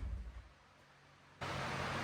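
Low rumble of the Spec Miata on the dyno dying away in the first half second, then near silence. About two-thirds of the way in, a steady hiss with a low hum starts abruptly.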